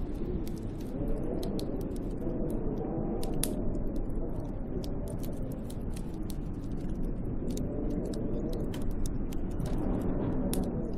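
Snowstorm wind howling around a hut in slow surges, its low pitch rising and falling. Scattered sharp ticks of blown snow strike the hut throughout.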